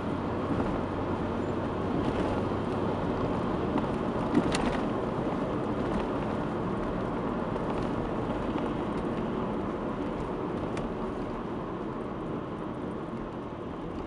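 Mazda 3 (BK) on the move, with steady road noise and a few sharp knocks, the clearest about four seconds in. This is the front-end knock that the owner traced to worn ball joints and the right front shock absorber.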